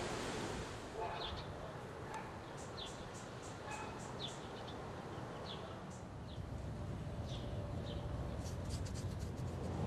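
Small birds chirping: short, high chirps every second or so, then a quick run of sharp ticking calls near the end, over a steady low outdoor rumble.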